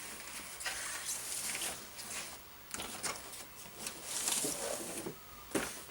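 Wrapping paper rustling and crinkling in irregular bursts, with a few sharp crackles.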